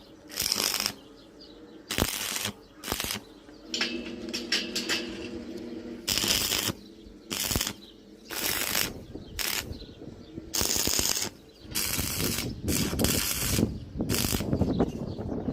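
Metalworking noise on iron: a run of harsh, crackling bursts, each under a second, separated by short gaps, with a brief low steady hum a few seconds in.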